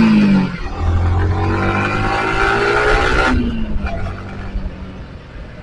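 Yamaha R15 V4's single-cylinder engine while riding: the engine note falls as the throttle eases at the start, then climbs slowly under light throttle. The note drops a little over three seconds in, and the engine runs quieter toward the end.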